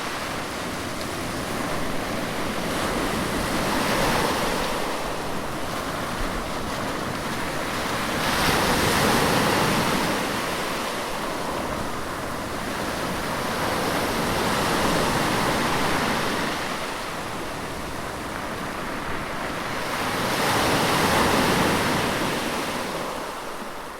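Sea waves breaking and washing on a shore, swelling and ebbing in a slow rhythm of a wave about every five to six seconds, fading out near the end.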